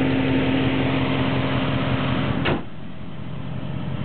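Jeep Grand Cherokee SRT8's 6.1-litre HEMI V8 idling with a steady hum. About two and a half seconds in, a sharp click comes and the sound drops quieter, then slowly builds back up.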